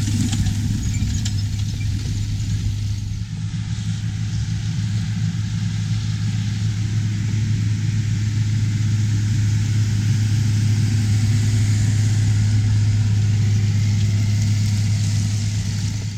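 Large diesel farm machinery running steadily under harvest work, a strong low drone with mechanical noise over it and a brief dip in level about three seconds in.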